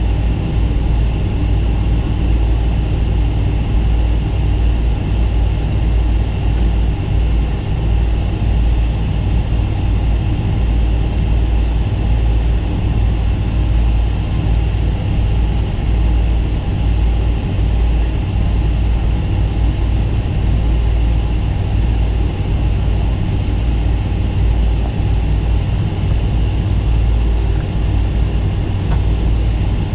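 Cabin noise inside a Boeing 777-200 taxiing on the ground: a steady low rumble from the engines at taxi power and the wheels on the pavement, with a constant hum and air-conditioning hiss.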